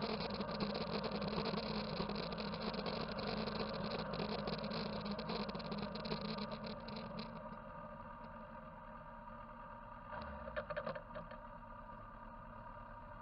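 Motorcycle engine running steadily, louder for the first seven seconds and then quieter, with a brief louder spell about ten seconds in.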